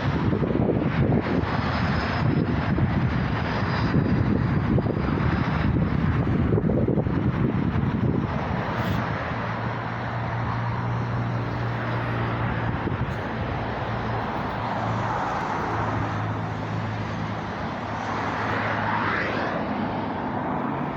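A vehicle running, first a heavy rushing rumble, then after about eight seconds a steadier, quieter hum with a low held tone, and a rising whine near the end.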